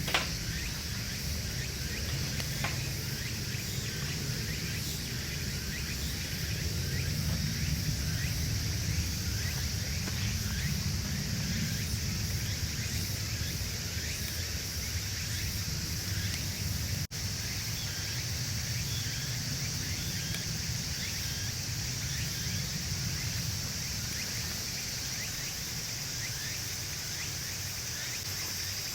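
Wood burning in a Signstek secondary-combustion wood stove: many small crackles over a low steady rumble of the flames. Insects chirp steadily throughout.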